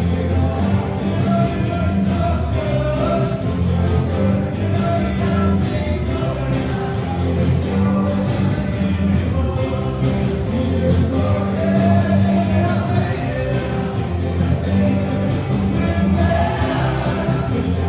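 A rock band playing a song live, with a singer's voice over a steady, heavy low end.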